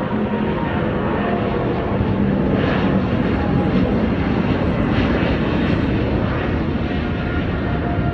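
Jet airliner's engines, loud and steady as the plane passes close by, with faint whining tones over the noise.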